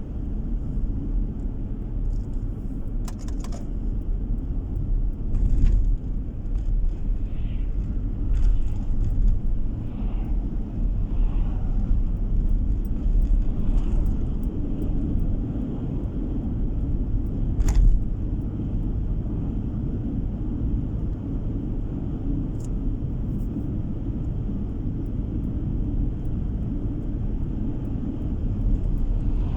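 Steady low road and engine rumble heard inside a moving car's cabin, with a few brief clicks or knocks; the sharpest comes about eighteen seconds in.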